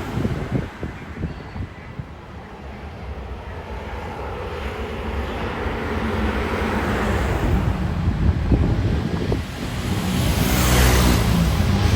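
Aircraft engine noise growing steadily louder as a plane approaches, becoming a full roar with steady engine tones near the end, over low wind rumble on the microphone.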